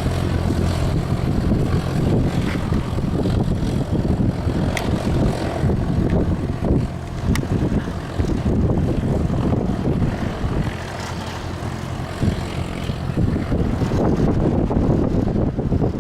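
Propeller aircraft engines running with a steady low drone.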